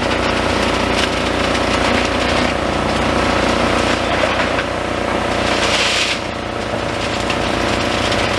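Demolition excavator's diesel engine running steadily, with rough scraping and grinding of concrete and steel rebar as the machine works the debris.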